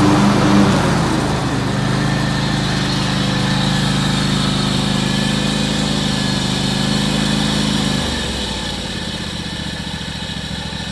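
2007 John Deere X540 garden tractor's 26-horsepower liquid-cooled Kawasaki V-twin engine running steadily. About eight seconds in, the engine note drops lower and a little quieter.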